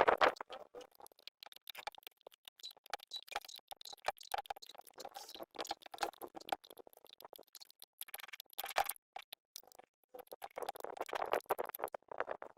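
Irregular light clicks, taps and scraping, as of hands working with small tools or parts, with busier patches near the middle and toward the end.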